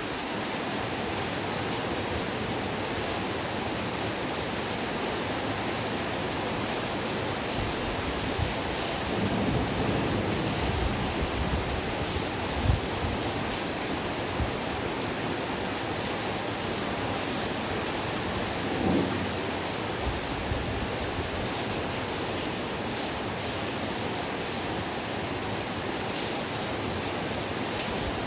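Heavy rain falling steadily, a dense even hiss. A few brief low swells come through, and there is one sharp low thump a little before halfway.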